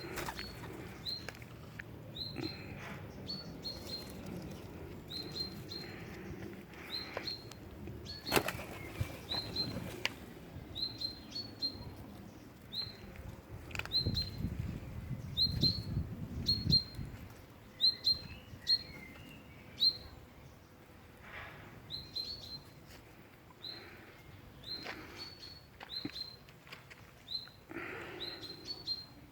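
A small bird giving short, high chirps over and over, about one or two a second, with scattered sharp clicks and taps among them.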